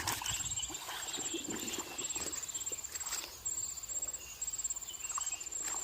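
Insects trilling in on-off pulsing bursts, high-pitched, with irregular soft knocks and patter underneath.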